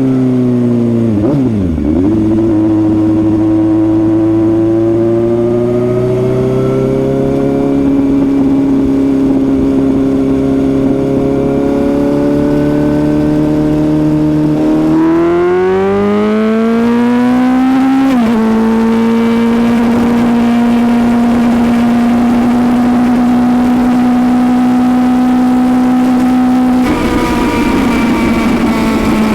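Suzuki GSX-S750's inline-four engine pulling the motorcycle along: the note dips sharply and recovers about two seconds in, holds and creeps up, then climbs quickly halfway through before dropping abruptly at a gear change and running steadily. A rush of wind noise comes up near the end.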